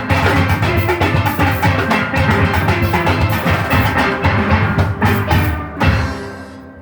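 Steel orchestra of steelpans backed by a drum kit playing a fast, rhythmic piece, ending near the end on a final struck chord that rings and fades away.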